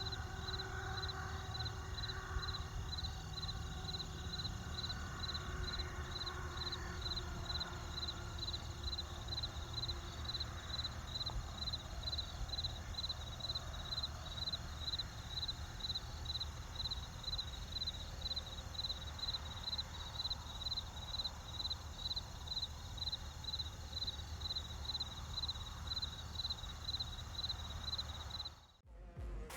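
Steady low rumble of a vehicle on the road, with a high chirp repeating about twice a second. Both cut off suddenly near the end.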